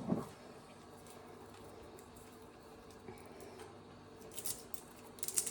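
Quiet kitchen with a faint steady hum; from about four seconds in, a few short crinkly rustles of packaging being handled.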